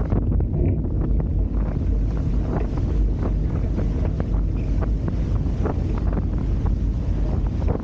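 Wind buffeting the microphone while a Hobie Tiger F18 catamaran is under sail, with a low steady rumble and irregular splashes of water against the hulls.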